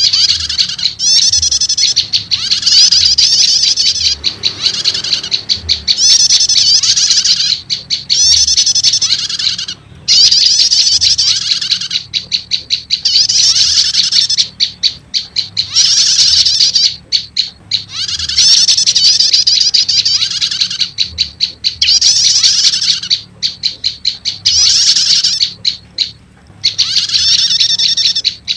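Prenjak lumut lure recording combined with prenjak starter calls: loud, rapid high-pitched chattering trills in phrases of one to two seconds, repeating with brief gaps.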